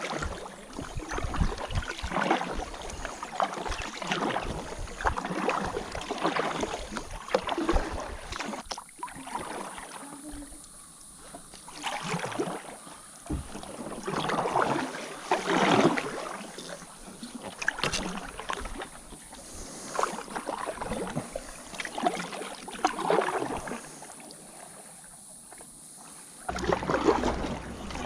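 Kayak paddle strokes splashing and swishing through the water, a stroke about every two seconds, with quieter pauses between runs of strokes. A low rumble joins near the end.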